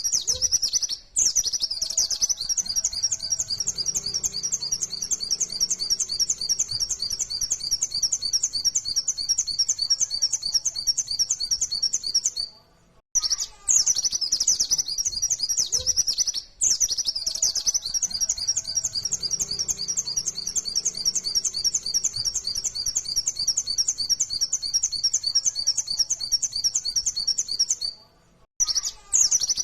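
Pleci (white-eye, Zosterops) singing a long, rapid run of high twittering notes in the fast 'nembak' style. The song breaks off briefly about a second in, near the middle and near the end, then starts again.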